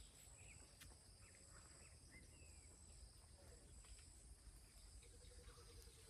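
Near silence: faint rural ambience with a few short, distant bird chirps over a steady, high, thin insect drone.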